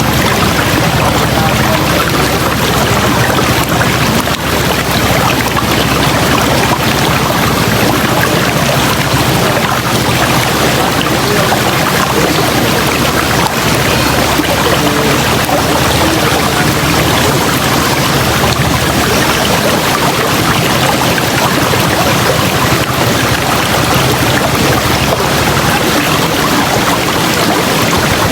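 River water rushing steadily over rocks, a loud even torrent with no breaks.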